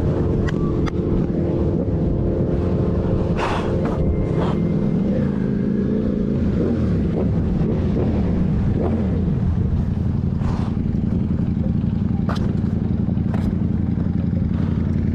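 Motor vehicle engine running steadily at road speed with a low rumble, its pitch falling for a few seconds midway as it slows, with a few brief knocks scattered through.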